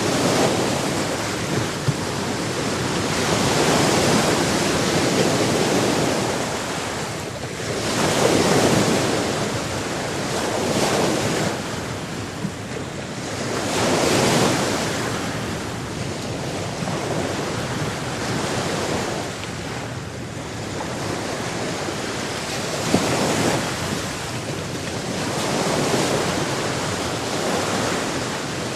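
Sea waves breaking and washing onto a shore, the surf swelling and falling back every few seconds over a steady hiss of water.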